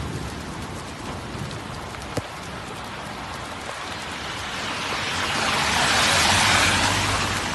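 Hailstorm downpour pelting down: a dense, steady hiss of falling hail and rain with scattered sharp ticks of stones striking, growing louder about five seconds in.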